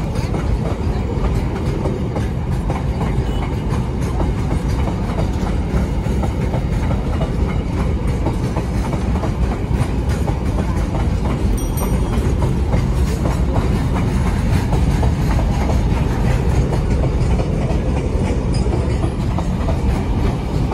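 Container freight train's wagons rolling past, a steady loud noise of wheels on the rails.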